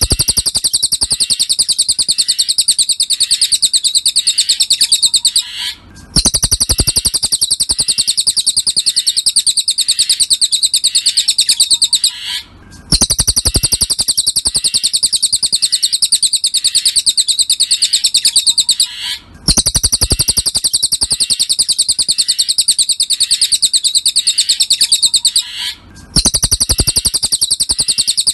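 Recorded cililin birdsong: a fast, high, unbroken chirping trill in stretches of about six seconds, each cut by a brief pause, four times.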